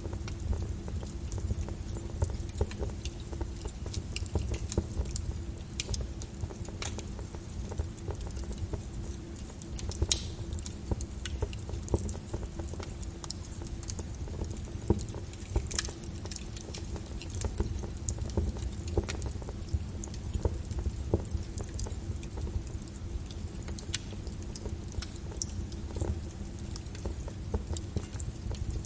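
Wood fire in a fireplace crackling: irregular sharp pops and snaps over a low rumble from the burning logs, with one louder pop about a third of the way through.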